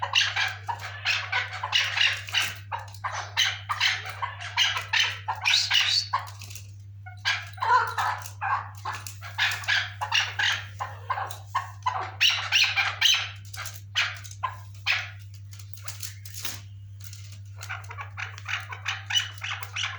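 Chukar partridge calling: long bouts of rapid, repeated clucking notes, with short pauses about seven seconds in and again past the sixteen-second mark, over a steady low hum.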